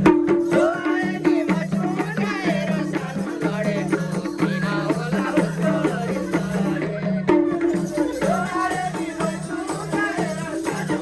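Nepali dohori folk music: a wavering melody over a rhythmic, repeating low accompaniment, with shaker-like percussion.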